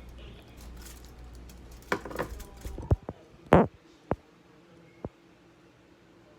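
Kitchen utensils and dishes clattering while a sandwich is made: a short run of clatter about two seconds in, then several separate sharp knocks and clinks, the loudest about three and a half seconds in. A low hum stops about three seconds in.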